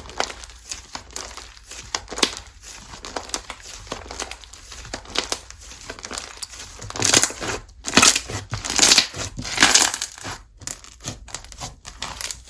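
Hands squishing and stretching slime: a run of small sticky clicks and pops, with a louder spell of crackling from about seven to ten seconds in.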